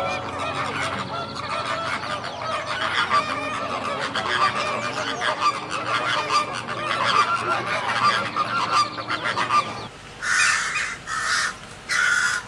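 A flock of waterfowl calling, many honks overlapping in a dense chorus. About ten seconds in, this gives way to four harsh bird calls in a row, spaced a little over half a second apart.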